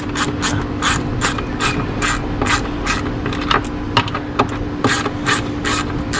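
Hand ratchet with a 12mm socket clicking steadily, about four clicks a second, as it runs a bolt of a Yamaha WaveRunner's jet-pump intake grate back in.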